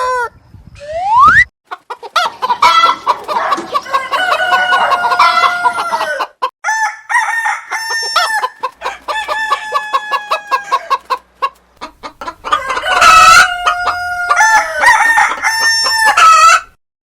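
Rooster crowing again and again: a run of long, pitched cock-a-doodle-doo crows, one after another with short breaks between them.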